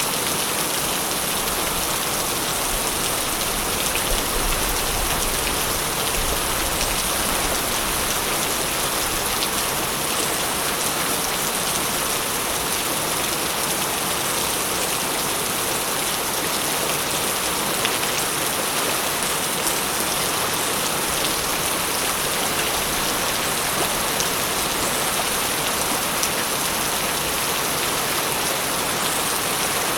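Steady rain falling: an even, unbroken hiss with scattered drop ticks.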